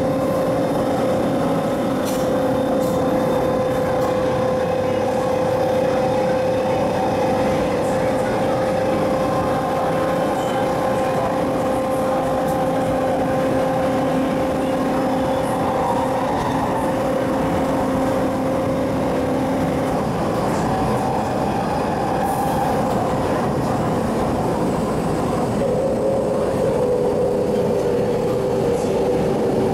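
MTR East Rail MLR electric multiple unit (mid-life refurbished car 2102) running steadily, heard from inside the passenger car: a steady whine from the traction equipment over the rumble of the wheels on the track, with a few light clicks. About two-thirds of the way through the lowest part of the whine drops out, and near the end a second tone comes in and slides slightly lower.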